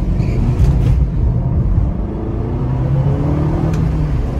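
Fiat 500 Abarth's turbocharged 1.4-litre four-cylinder with its Record Monza exhaust, accelerating hard in sport mode, heard from inside the cabin. The engine note climbs in pitch, dips briefly about halfway as the robotised single-clutch gearbox shifts up, then climbs again.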